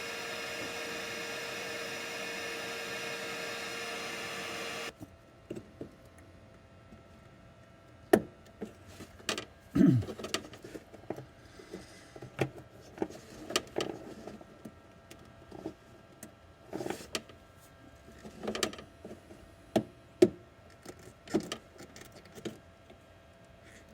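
A small electric motor whirs at a steady pitch for about five seconds, then cuts off. It is followed by scattered clicks, clinks and knocks of tools and parts being handled while the engine is disconnected.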